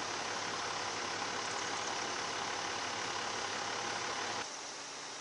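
Sand truck's engine running steadily, then dropping to a lower, quieter hum about four and a half seconds in.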